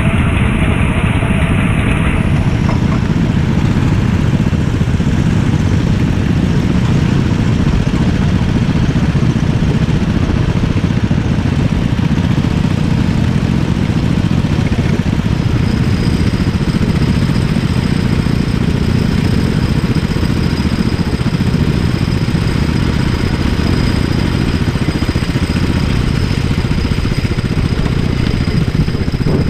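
Go-kart engine running steadily, heard on board as a dense, loud rumble with no revving rises or falls.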